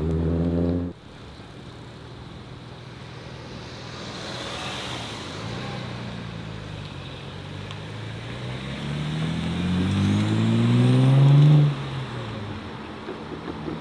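A modified car's engine accelerates away, its note rising steadily in pitch and growing louder over about four seconds before it stops abruptly. Another engine runs loudly in the first second, then stops suddenly.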